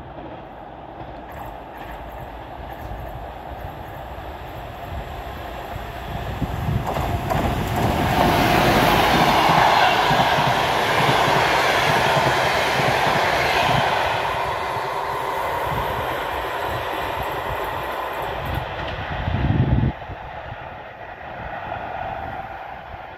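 Passenger train hauled by a Siemens Eurorunner ER20CF diesel-electric locomotive passing at speed. Engine and rail noise builds about six seconds in, the coaches' wheels clatter loudly over the rails for about twelve seconds, and the sound drops suddenly as the last coach goes by, then fades.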